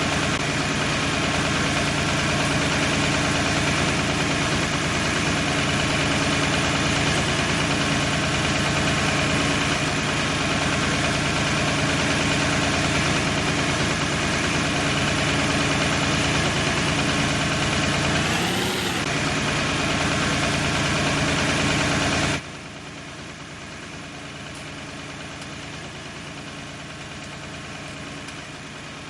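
An old tractor engine, newly revived after standing for 28 years, idling steadily, with one brief rev that rises and falls about two-thirds of the way in. It then sounds suddenly quieter but keeps running.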